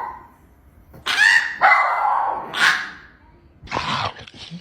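A dog vocalising in a string of about four drawn-out calls.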